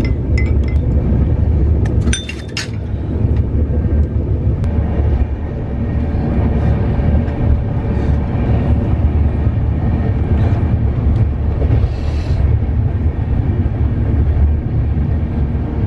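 Passenger train running, heard from inside the coach: a steady low rumble of the wheels on the rails. A brief cluster of clinks comes about two seconds in.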